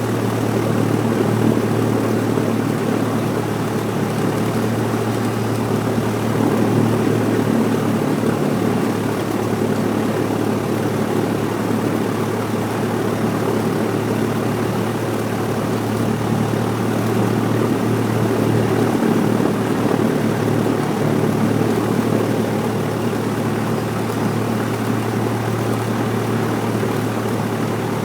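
Cessna 172's piston engine and propeller running steadily, heard from inside the cockpit as a constant low drone.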